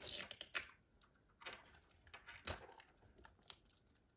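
Rainbocorns Puppycorn surprise egg being opened by hand: a few sharp clicks and crinkling rustles of the packaging as the egg is pried apart.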